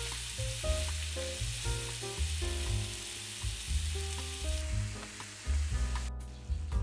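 Sliced zucchini and mushrooms sizzling as they fry in a pan, over light background music with a melodic tune. The sizzle fades away about two-thirds of the way in.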